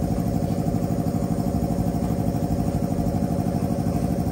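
Vehicle engine idling steadily, with an even rapid pulse.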